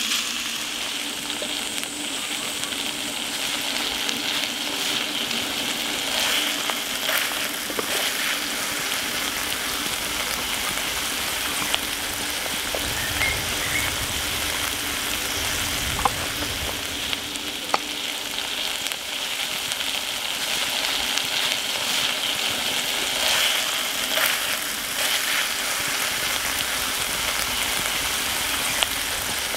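Spicy marinated chicken sizzling steadily in a 10-inch Lodge cast iron skillet, with a few sharp pops and crackles.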